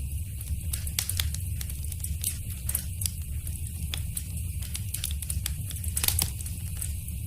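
Wood fire crackling in a fireplace: irregular sharp pops and snaps over a steady low rumble of the flames, with a brief flurry of pops about six seconds in.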